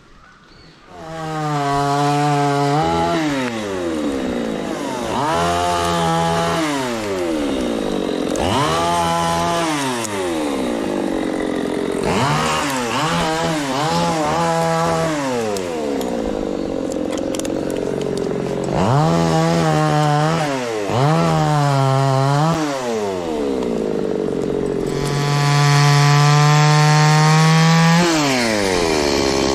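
Chainsaw cutting wood: the engine comes in about a second in and is repeatedly throttled down and back up every few seconds as it cuts, with a stretch of steady full throttle near the end.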